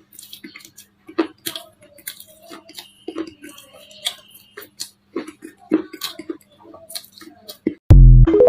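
Baked clay being crushed and crumbled, giving irregular crisp crackles and snaps. About eight seconds in, a sudden, much louder low boom with falling tones cuts in.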